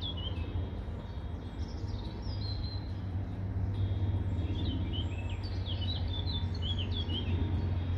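Small birds chirping and singing in short, repeated phrases, over a steady low rumble.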